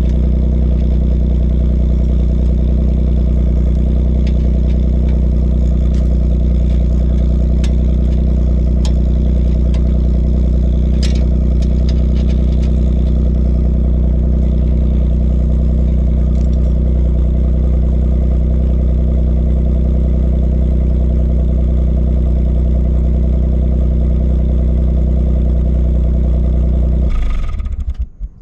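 Suzuki Alto Works HB21S's K6A three-cylinder turbo engine idling steadily through an aftermarket rear-section muffler, then shut off about a second before the end.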